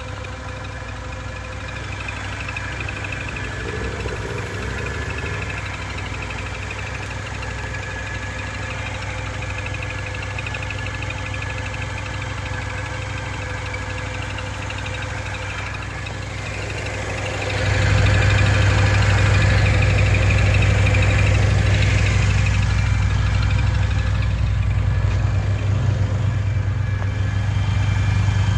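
Vehicle engine idling steadily with a squeak over it. About 17 seconds in the engine gets louder and stays louder, and the squeaking grows stronger for a few seconds.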